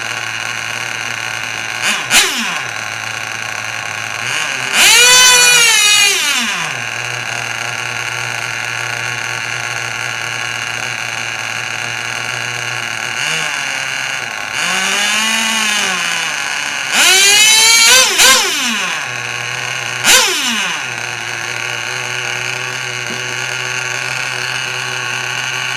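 Micro mini pulling tractor's battery-fed motor spooling up and back down in about five short bursts, each a whine that rises and falls in pitch, over a steady hum.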